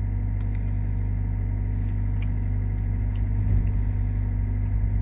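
Vehicle engine idling: a steady low rumble, swelling slightly about three and a half seconds in, with a few faint clicks.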